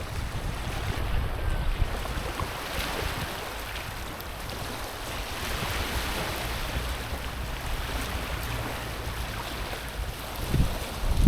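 Small ocean waves washing over a stony, pebbly shore: a steady hiss of moving water that swells in the middle. Wind buffets the microphone with a low rumble that gusts louder near the end.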